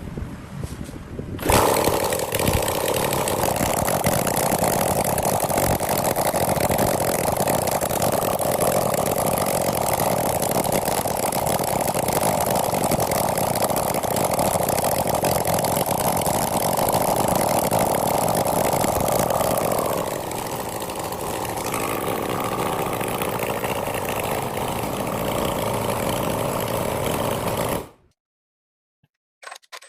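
A homemade four-cylinder engine, built from scrap, running steadily at a fast, even speed. About two-thirds of the way through it settles a little lower, and near the end it cuts off abruptly.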